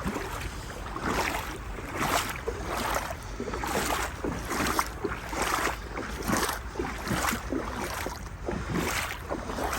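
Legs wading through knee-deep floodwater: a swishing splash with each stride, repeating steadily about one to two times a second.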